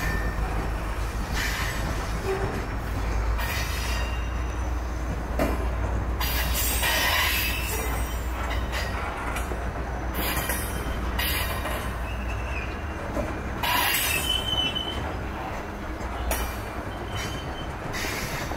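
Freight cars of a CP Rail ballast and tie train rolling past: a steady low rumble of steel wheels on rail, broken every second or two by clatter, with several short high-pitched wheel squeals in the second half.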